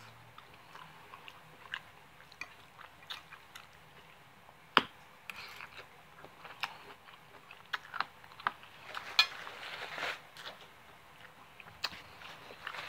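Close mouth sounds of someone chewing soft, creamy chicken and egg noodles, with scattered light clicks and two sharper clicks, about five and nine seconds in. A brief rustle comes a little after the middle.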